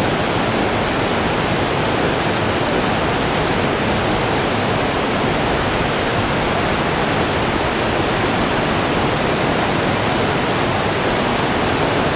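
Whitewater rapid with a two-step drop: a steady, even rush of water that does not change.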